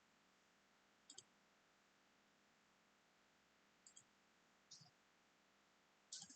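Faint clicks of a computer mouse over quiet room tone: a double click about a second in, another pair near four seconds, a single click near five seconds and a quick run of clicks at the end.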